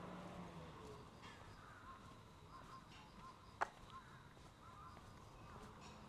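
Faint crows cawing in a quiet ambience, with one sharp click about three and a half seconds in.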